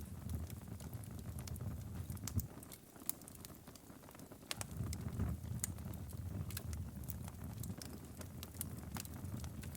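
Wood fire crackling, with sharp irregular pops and snaps over a low rumble of flames. The rumble drops away for a moment about 3 seconds in and comes back a second and a half later.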